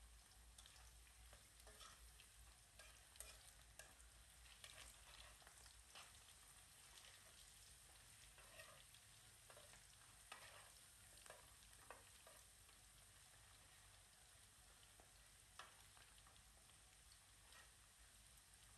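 Potato strips frying in oil in an aluminium wok, a faint sizzle, with occasional light clicks of metal tongs stirring them in the pan.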